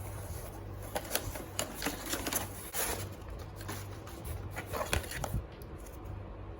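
Cardboard and plastic packaging being handled: irregular clicks, taps and short rustles, thinning out after about five and a half seconds, over a steady low hum.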